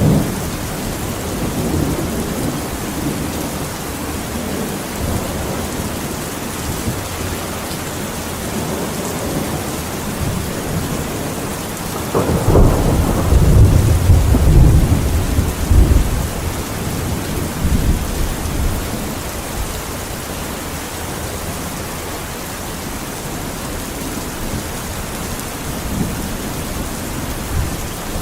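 Steady rainfall with thunder rolling; a long, loud low rumble of thunder swells about twelve seconds in and rolls for around four seconds before fading back under the rain.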